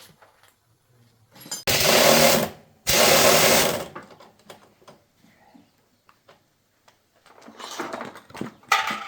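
A small electric power tool runs in two short bursts of about a second each, starting and stopping abruptly, followed by fainter clattering near the end.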